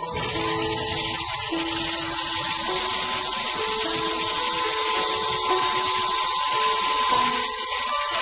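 Small high-speed grinding mill running steadily with a loud, high-pitched motor whine.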